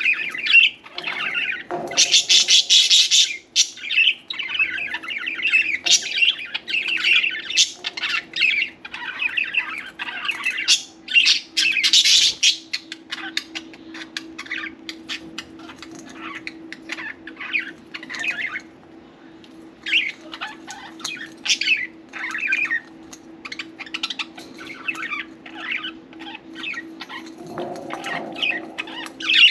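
Several pet budgies chirping and chattering with harsh squawks mixed in. The calls are dense and loud for the first dozen seconds, then thin out to scattered chirps.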